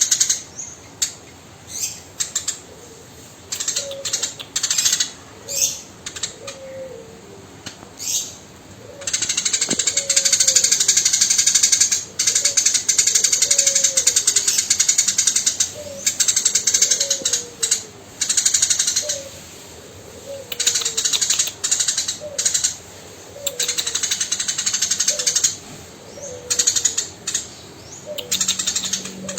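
Eurasian tree sparrow chirping in fast, harsh chattering runs that stop and start, one run lasting several seconds. A faint low falling note repeats about once a second underneath.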